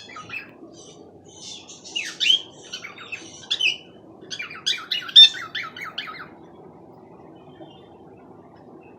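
Cockatiel chirping and squawking in two bursts of quick calls, the second a fast run of falling chirps, then falling quiet for the last few seconds over faint steady room noise.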